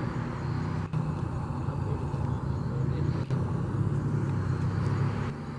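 Steady low engine rumble of a heavy vehicle, which eases off about five seconds in.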